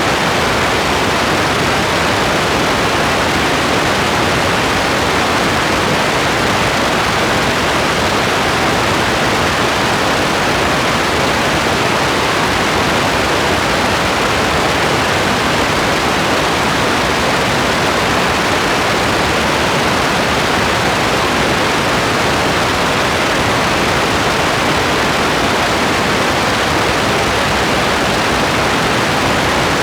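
Steady rain ambience: a loud, dense, even hiss with no separate drops, thunder or change in level.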